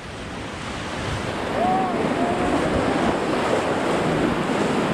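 Whitewater of a river rapid rushing around a raft, swelling over the first second or so and then holding steady. A faint voice calls briefly about two seconds in.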